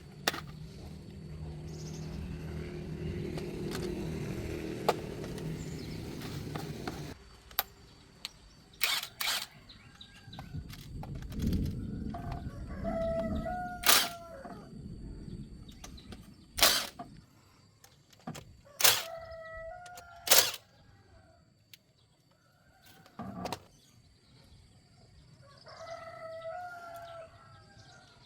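A rooster crowing three times, among sharp clinks and knocks of work. A steady machine hum runs for about the first seven seconds, then cuts off.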